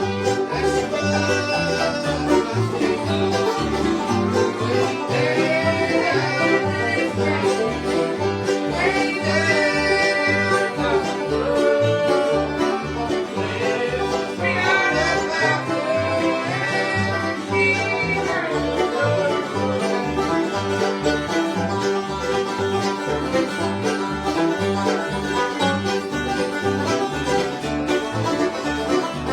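Bluegrass band playing an instrumental: fiddle carrying the melody over banjo picking, guitar and bass on a steady beat.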